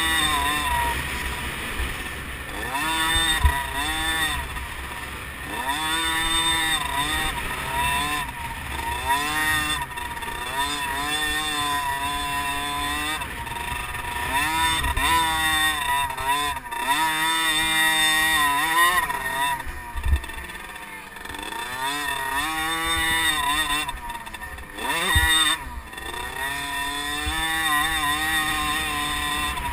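Liquid-cooled 50cc two-stroke motocross bike engine revving high and dropping back again and again as the bike accelerates, shifts and slows around the track. A few sharp thumps stand out over the engine.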